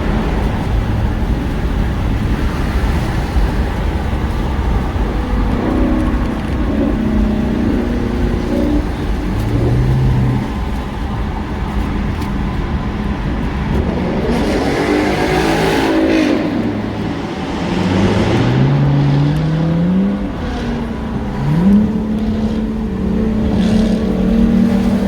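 Car driving on the road: steady low road and wind rumble, with the engine note climbing in pitch twice in the second half as it accelerates, then holding steady near the end. About halfway through a louder swell of noise rises and falls, like a vehicle passing close by.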